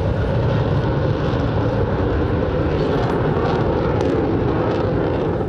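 MiG-21 Lancer fighter's single turbojet engine in flight: a loud, steady jet noise.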